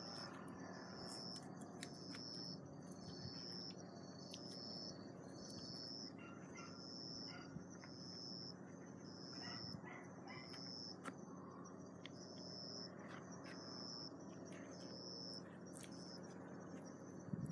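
Faint, high-pitched insect chirping, one even pulse repeated a little over once a second, with scattered light crackles from a bonfire over a low steady background.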